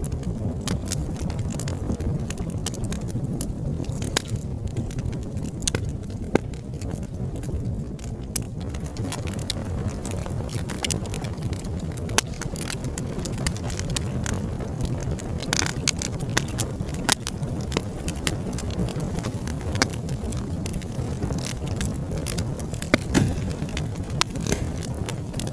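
Wood fire crackling, with many short irregular pops and snaps over a steady low rumble of flames; a few louder pops stand out, the loudest near the end.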